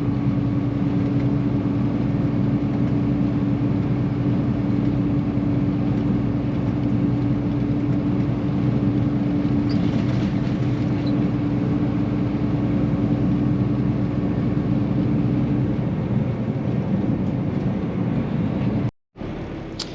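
Semi truck on the highway, heard from inside the cab: a steady engine drone with a constant hum, over road and tyre noise. The sound cuts out abruptly for a moment near the end.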